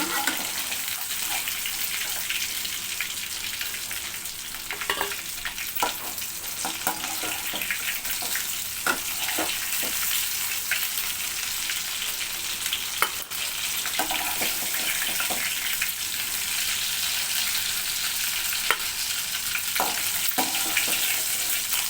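Marinated chicken 65 pieces frying in hot oil in a pan: a steady, high sizzle, with a few sharp taps and clicks scattered through it.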